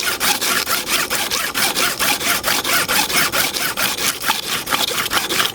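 Hair clipper blade rubbed back and forth on smooth sandpaper in quick, even strokes, a fast scratchy rasp. This is the blade's surface being lapped flat before sharpening. The strokes stop right at the end.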